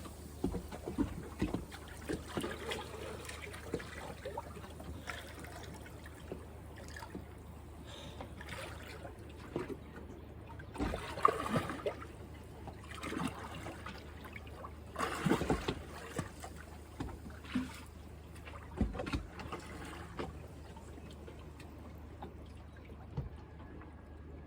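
Water splashing and trickling in irregular small bursts, a few louder ones scattered through, over a faint steady low hum.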